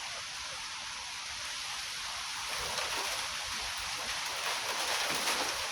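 Rain falling in a thunderstorm: a steady hiss that grows heavier over the last few seconds, with gusty wind buffeting low underneath.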